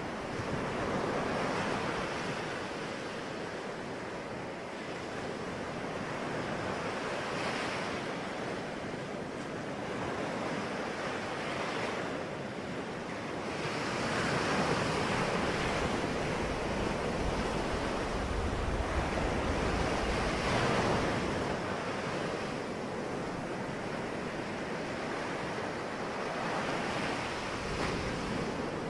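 Sea waves breaking and washing on a shore, the surf swelling and easing every few seconds, with wind buffeting the microphone at times.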